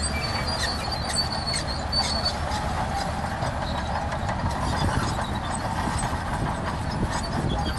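Crawler bulldozer working, its diesel engine running under a constant clatter of steel tracks, with a high squeal from the track links during the first two seconds or so.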